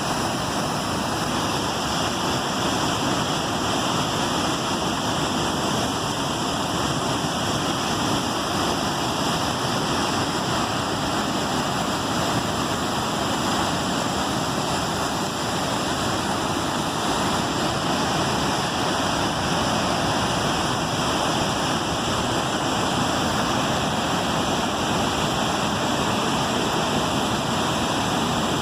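Waterfall: a steady, even rush of falling water that holds unchanged throughout.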